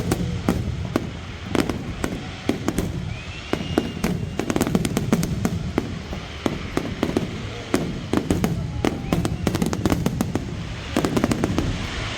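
Fireworks display: a rapid, irregular string of bangs and crackling pops over a low rumble.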